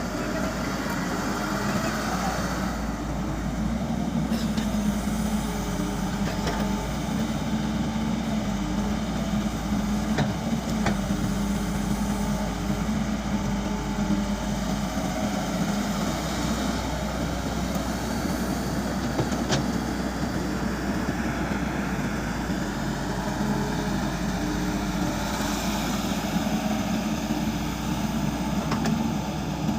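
Caterpillar excavator's diesel engine running steadily, a constant low drone with a few faint clicks.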